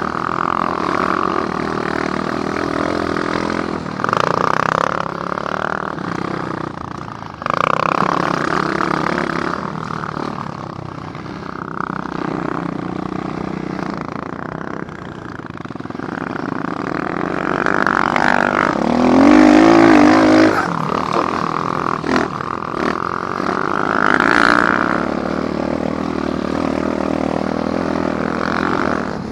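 Apollo dirt bike's small single-cylinder engine running under way on a trail, pitch and loudness rising and falling with the throttle. It revs up most strongly about two-thirds of the way through.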